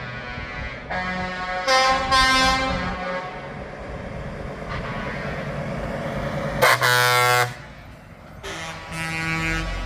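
Truck air horns sounding in three blasts over truck engines running: a longer blast of several tones about a second in, a short, loud blast past the middle, and another near the end.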